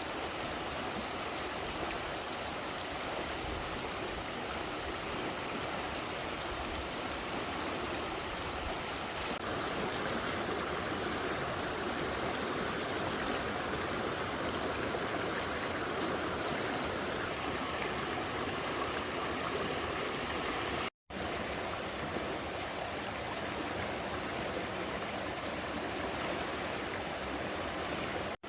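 Steady rushing of flowing water, like a stream, that cuts out for an instant about two-thirds of the way through.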